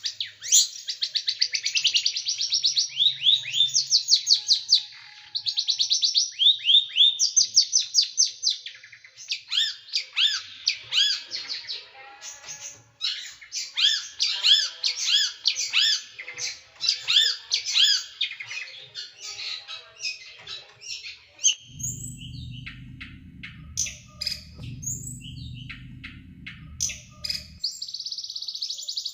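Small songbird singing in rapid, dense trills of sharp high notes, the fast 'tembakan' burst phrases, which give way about a third of the way in to a run of separate hooked chirps about three a second. A low rumble joins for several seconds past the middle, and the dense trilling returns near the end.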